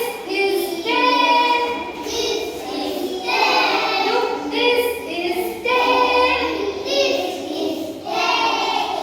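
A class of young children singing together in unison, in short phrases with brief breaks between them.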